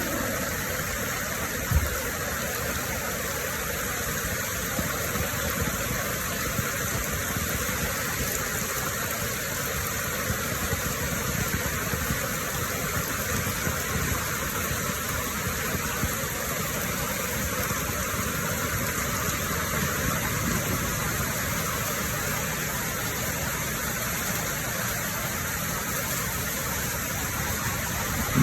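Heavy rain falling in a steady, dense hiss, with one brief thump about two seconds in.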